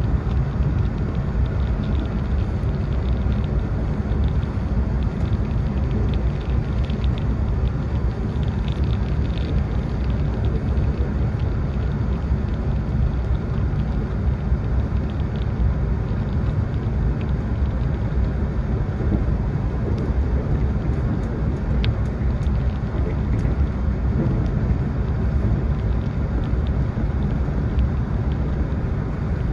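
Steady low rumble of an E4 series Max double-decker Shinkansen running, heard from inside the car, with a few faint ticks.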